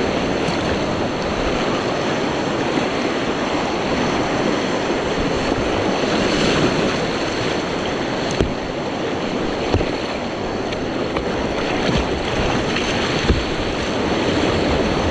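Steady rush of creek rapids around a kayak, with a few small knocks.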